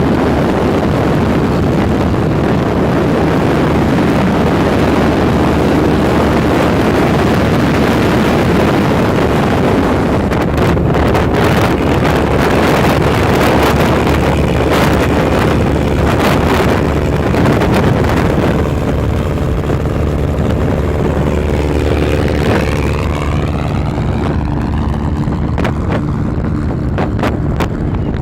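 Motor vehicle engine running hard, with wind buffeting the microphone. From about two-thirds of the way through, the engine note becomes steadier, with some rising and falling pitch.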